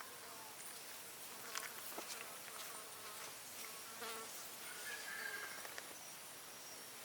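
Insects buzzing and chirping steadily, with a few light knocks and short chirps over the top.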